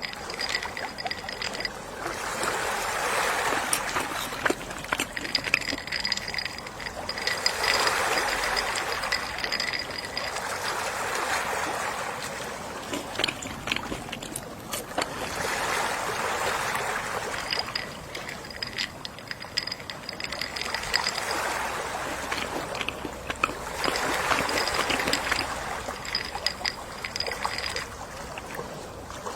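Gentle sea waves washing in and drawing back, each a hiss that swells and fades, one about every four to five seconds.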